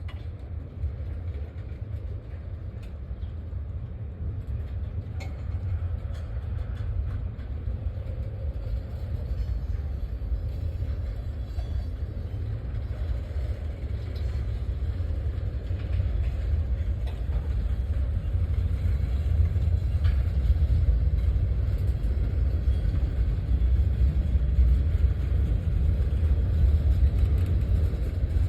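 Low, steady rumble of a train, growing slowly louder.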